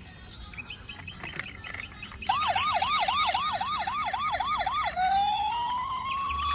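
Toy police car's electronic siren. A little over two seconds in it starts a fast yelp, about four quick rising sweeps a second, then near the end switches to a slow wail rising in pitch.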